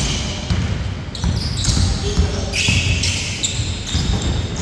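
Pickup basketball game play: a basketball bouncing on the court with repeated thuds, sneakers squeaking in short high bursts, and players' voices calling out.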